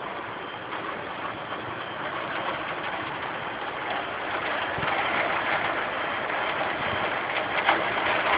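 Heavy rain pouring down, a steady rushing hiss that grows louder about halfway through, with a few sharper splashes near the end.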